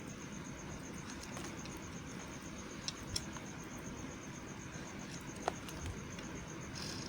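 A knife cutting into a bar of white soap: a few sparse, crisp clicks, the sharpest about five and a half seconds in, over a steady hiss with a faint high pulsing tone.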